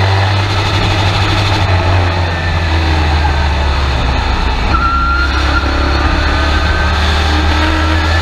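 Race truck's engine heard from inside the cab, a loud steady drone, with a thin whine rising slowly in pitch from about halfway through.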